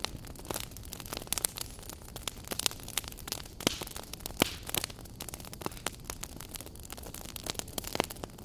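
Wood fire burning in a fireplace, crackling with frequent irregular sharp pops over a low steady rush of flame.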